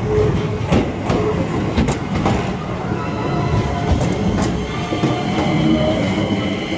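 Shizuoka Railway A3000-series electric train passing close by, its wheels knocking over rail joints several times in the first half. A steady whine comes in from about halfway through.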